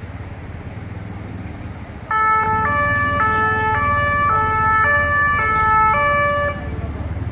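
French two-tone emergency vehicle siren, loud and sudden about two seconds in, alternating between two pitches about every half second before cutting off near the end, over a steady low rumble of vehicle traffic.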